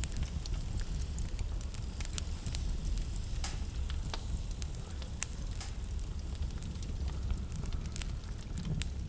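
Wood fire crackling in a fireplace: a steady low rumble of flame under irregular sharp snaps and pops, a few louder ones near the middle.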